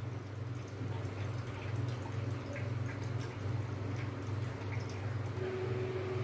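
Paneer tikka skewer sizzling in oil on a hot tawa, with sparse small crackles and pops over a steady low hum.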